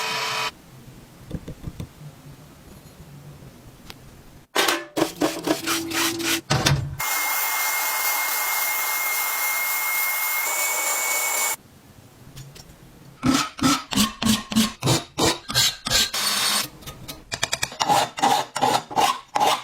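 Rust-removal tool work on old metal parts, in separate short clips: runs of rhythmic scraping strokes, a steady power-tool whir with a thin high whine for several seconds in the middle, then quicker scraping strokes, about three to four a second, near the end.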